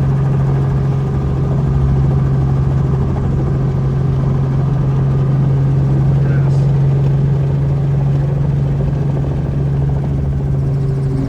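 Helicopter engine and rotor running in flight, a loud, steady low drone.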